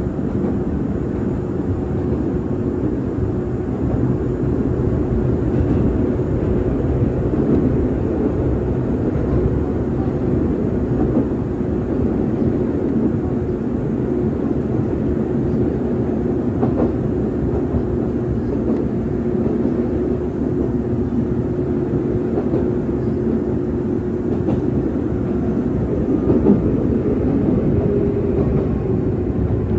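Izuhakone Railway 5000 series electric train heard from inside the car while running: a steady rumble of wheels on rail with a steady whine over it and occasional clicks. The whine's pitch falls slightly near the end.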